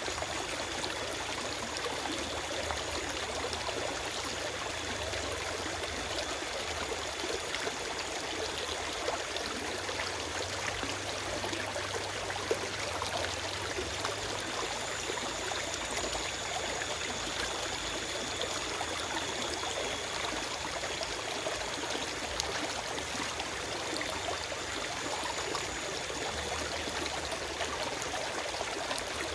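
Forest stream flowing steadily over rocks, a continuous rushing and trickling of water with no birds.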